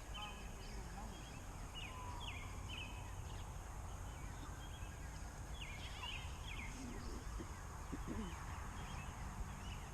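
Cornish Cross meat chickens cheeping, short high chirps coming in scattered clusters, over a steady low background noise.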